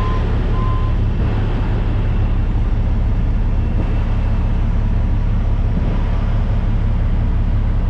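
Heavy diesel truck engine running steadily with a deep low rumble. A reversing beeper sounds twice near the start, then stops.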